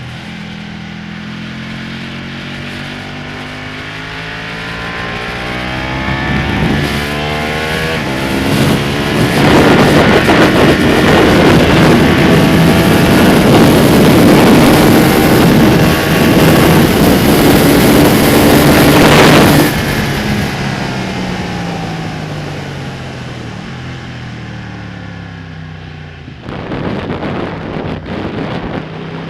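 Ducati Panigale V-twin sportbike engine on track, heard onboard. It builds revs through the gears into about ten seconds of loud running at speed with a rushing noise over it, then the revs fall away sharply as the throttle closes. Near the end it accelerates again.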